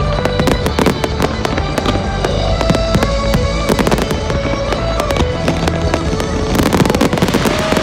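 Firework display: rapid bangs and crackling, with music playing underneath. About six and a half seconds in, a dense hissing crackle swells up.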